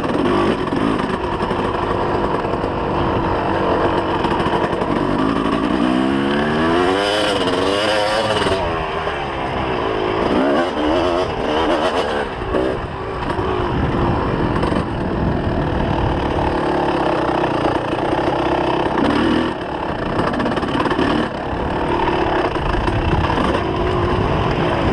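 2004 Kawasaki KX250's two-stroke single-cylinder engine running under riding, with the revs swinging up and down quickly several times about a quarter of the way in, then holding steadier.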